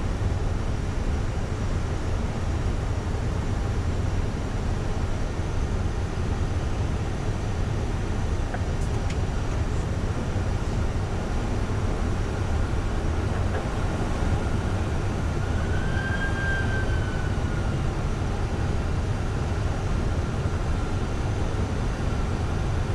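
Steady flight-deck noise of a Boeing 747-400ERF in flight: an even rush, heaviest in the low end, heard inside the cockpit. A faint short tone rises and falls about two-thirds of the way through.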